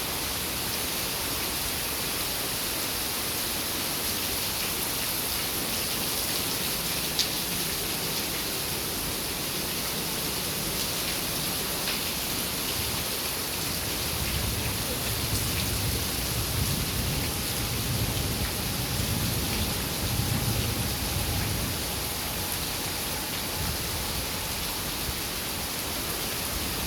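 Heavy rain pouring down in a steady hiss. A low rumble swells for several seconds in the middle.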